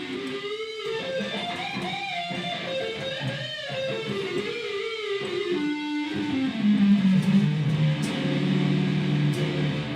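Guitar-led rock music, its melody drifting downward and settling into held low notes near the end, then stopping abruptly.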